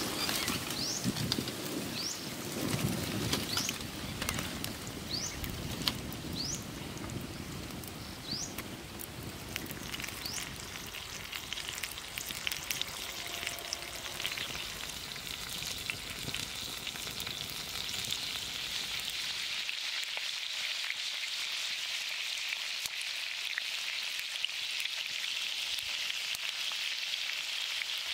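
Pork-stuffed green pepper rings frying in shallow oil in a pan over a wood fire: a steady sizzle with occasional small pops. The sizzle becomes brighter and more hissing about two-thirds of the way through.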